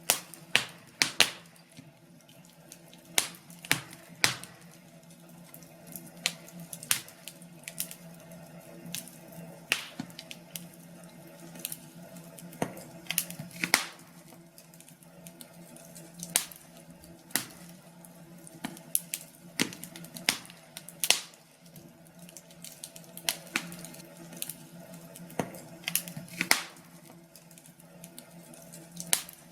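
Wood fire crackling: sharp, irregular pops and snaps, roughly one a second and some louder than others, over a faint steady hum.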